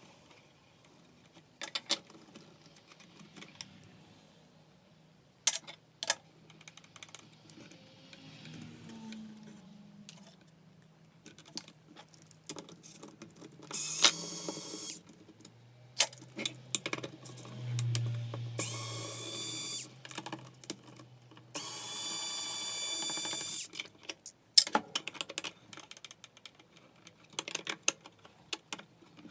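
Electric screwdriver whirring in three short runs, about one to two seconds each, as screws are backed out of a belt sander's housing. Between them come light clicks and knocks of plastic parts and screws being handled.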